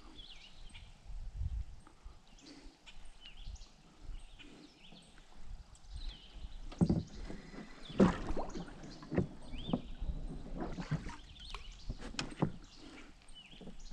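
Knocks and bumps of gear and movement in a small fishing boat, a cluster of sharp knocks in the second half, with birds chirping in the background.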